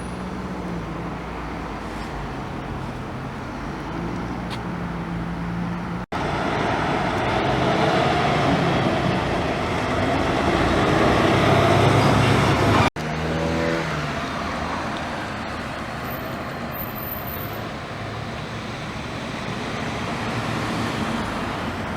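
Road traffic on a busy street: cars running past steadily. From about six seconds in, one vehicle grows louder with its engine rising in pitch as it accelerates and passes close. After about thirteen seconds a passing engine falls in pitch. The sound cuts out abruptly twice.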